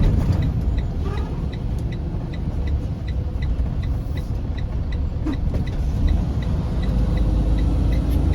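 Semi truck's diesel engine running with a steady low rumble inside the cab, a little louder from about six seconds in, while the turn signal ticks evenly about three times a second ahead of a left turn.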